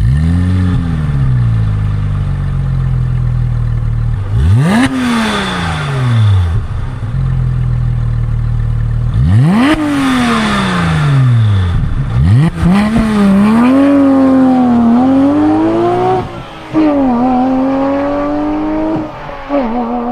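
Porsche engine flaring and settling to idle, blipped sharply twice, then held at high revs, rising and falling with two brief drops in pitch.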